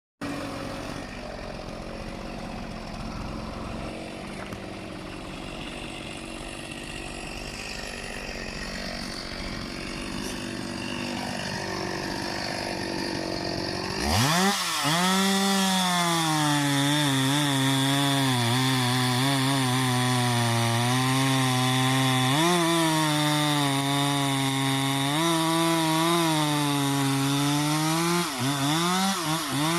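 An engine working hard: a rough, noisy running sound that builds slowly, then about halfway through an engine revs up sharply and runs at high revs under load, its pitch wavering up and down, before dipping and dropping off near the end.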